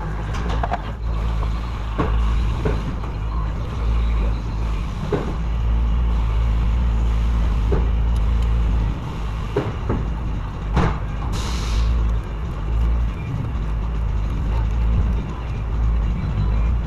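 Scattered clicks and knocks of hand tools and metal parts during timing-chain work on an engine, over a steady low hum, with a short hiss about eleven seconds in.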